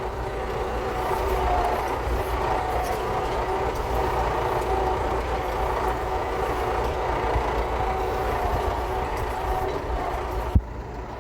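David Brown 1490 tractor's diesel engine running steadily at a slow, even pace over a rough track, with a sharp click near the end.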